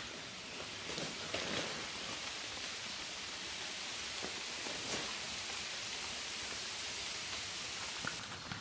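A steady, even hiss of outdoor noise with a few faint ticks scattered through it.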